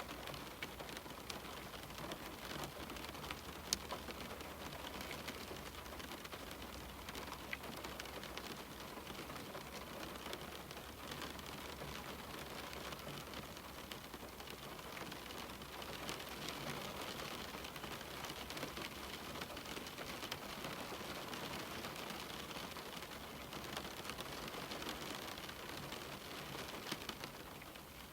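Steady rain on a window pane: an even hiss of falling rain dotted with many small drop ticks, with one sharper tick about four seconds in.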